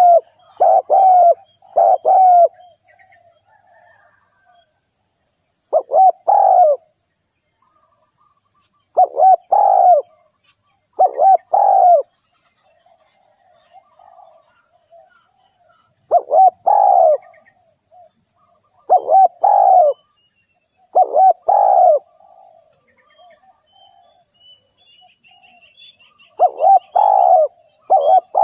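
Spotted dove cooing: about eight short bursts of two to four pitched coo notes, separated by gaps of a second to several seconds. This is the call of a decoy dove, used to lure wild spotted doves.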